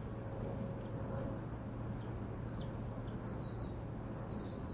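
Faint outdoor ambience: a steady low hiss with a few soft, short high chirps scattered through it.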